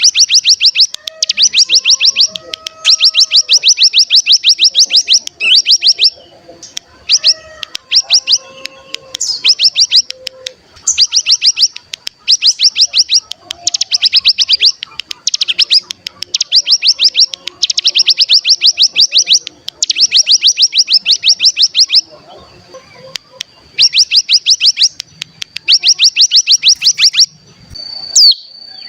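Ciblek gunung (cigun) singing its 'ngebren' call: fast, machine-gun-like trills in bursts of one to two seconds, repeated over and over with short gaps, over a thin steady high tone. This rapid trill is the song used as a lure to set other cigun singing.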